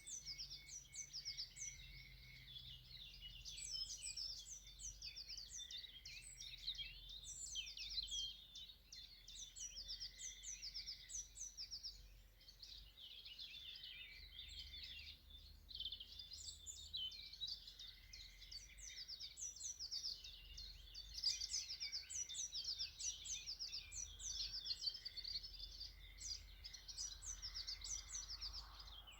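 Several small birds chirping and singing steadily in a quiet chorus: quick repeated chirps and short trills.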